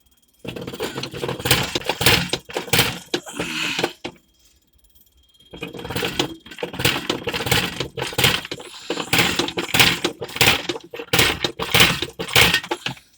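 Metal tools and parts clinking and clattering in quick, irregular knocks: two busy stretches with a short pause about four seconds in.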